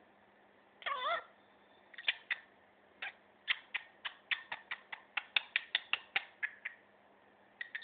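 Budgerigar chattering: a warbled, pitch-bending call about a second in, then a quick run of short clicking chirps, about four or five a second, from about three seconds in.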